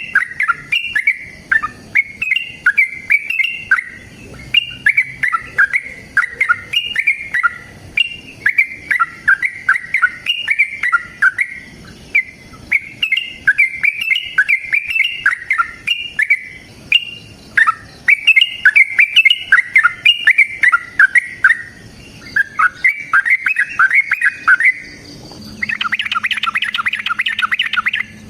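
Yellow-vented bulbul (trucukan) song: short, bubbly, chattering phrases repeated about once a second. Near the end it changes to a dense, unbroken rapid chatter over a low, steady hum.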